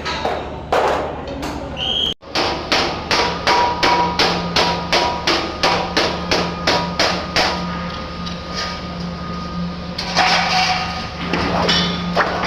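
Hammer blows on sheet-metal ductwork, a quick even run of sharp strikes at about three a second that stops about eight seconds in.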